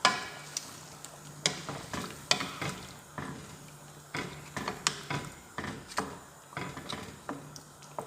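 Spoon stirring the curry in the cooking pot: irregular clinks, knocks and scrapes against the pot, over a steady low hum.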